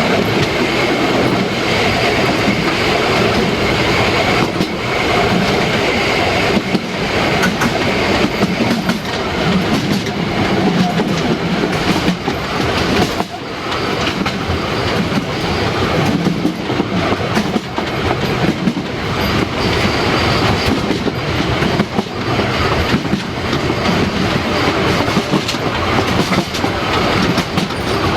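Harz narrow-gauge train running, its wheels clattering over the rail joints, with a faint wheel squeal in the first few seconds.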